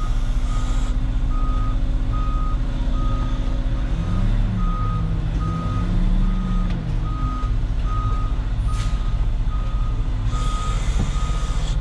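Concrete mixer truck backing up: its reverse alarm beeps in an even on-off pattern over the steady running of its diesel engine. The engine note dips and rises briefly near the middle.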